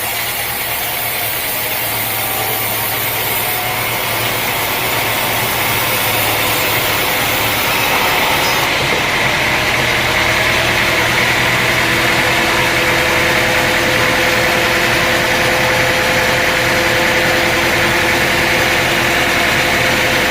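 Sawmill machinery running steadily: an engine hum with steady higher-pitched tones over it, without a break.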